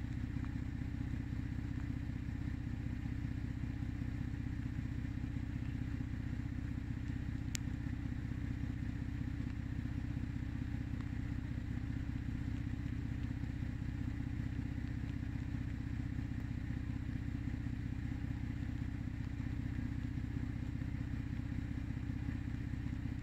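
Vehicle engine idling, a steady low rumble with a fast even pulse, with a single sharp click about seven and a half seconds in.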